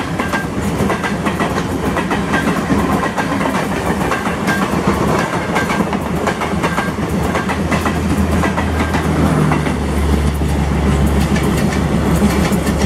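Express train coaches passing close by, with rapid clickety-clack of wheels over rail joints. Under it is the steady low hum of a diesel locomotive idling on the next track, whose rumble grows louder in the last few seconds.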